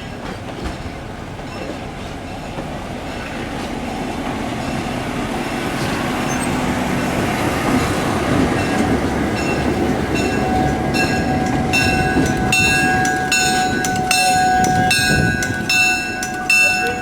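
A train approaching, its rumble growing steadily louder, then a bell ringing in an even rhythm of about one and a half strokes a second from about two-thirds of the way in.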